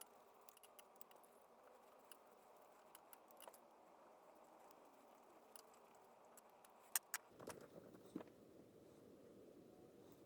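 Faint scattered clicks and light taps of small metal parts being handled during reassembly of an antique electric fan, with two sharper clicks about seven seconds in.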